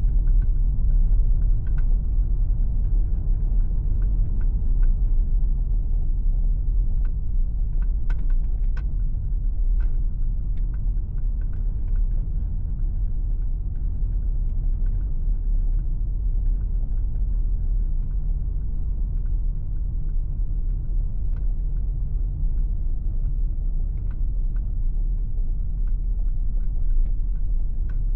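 MG ZS Hybrid+ driving on the road: a steady low rumble of tyres and wind with scattered faint ticks.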